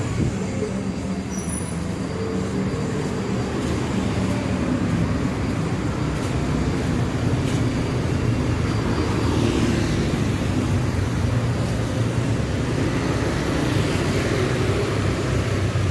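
Street traffic: engines running close by in a steady hum, with vehicles passing about ten seconds in and again near the end.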